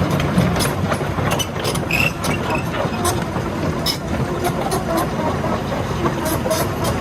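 Heavy diesel engines of the excavator and truck running steadily, with many small clicks and knocks scattered through the sound.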